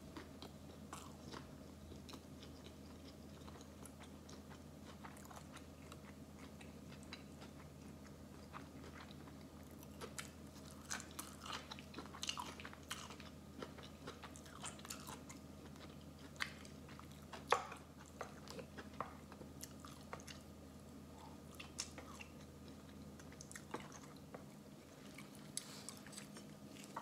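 Close-miked chewing of sushi rolls: soft wet mouth clicks and light crunches at irregular intervals, one sharper click about two-thirds of the way through, over a steady low hum.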